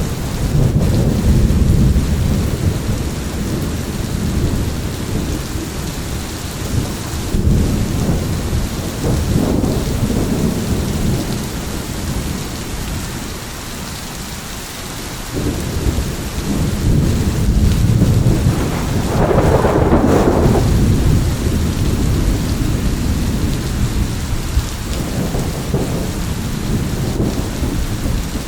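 Thunderstorm: steady heavy rain with rolling thunder rumbling low again and again, swelling into its loudest peal about two-thirds of the way through.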